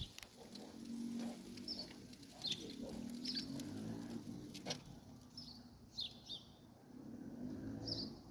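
Bird calls: short, high, downward-sliding chirps repeating roughly once a second over a low steady background hum.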